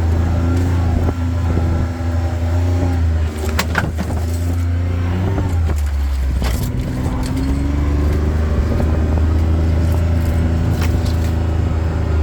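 A vehicle driving slowly along a rough dirt track: a steady low engine and road rumble, with a few sharp knocks and rattles from bumps, around four, six and eleven seconds in.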